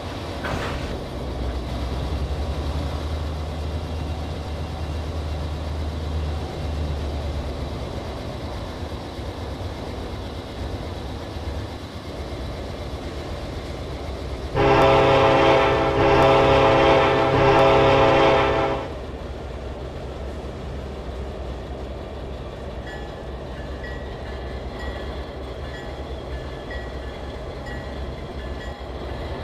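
Diesel freight train running with a steady low engine rumble. About halfway through, the locomotive's air horn sounds one long blast of about four seconds, the loudest thing heard, followed by the steady rolling of the freight cars.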